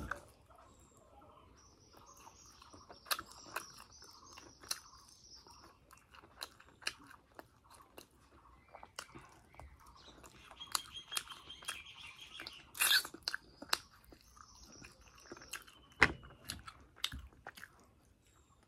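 A person chewing and biting fried suji (semolina) puri close to the microphone: irregular crisp crunches and mouth clicks, with a few louder crunches.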